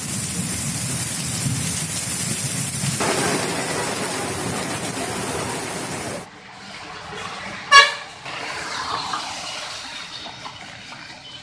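Steady rush of heavy rain with a low traffic rumble, which cuts off abruptly about six seconds in. Quieter street noise follows, with a short, loud car-horn toot about two seconds later.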